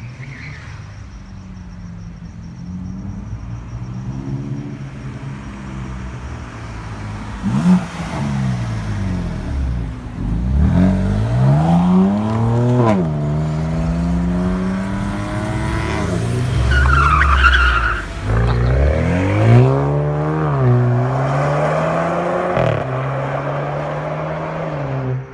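A performance car's engine revving hard, its pitch climbing and dropping again several times. There is a sharp knock about a third of the way in and a brief tyre squeal past the middle.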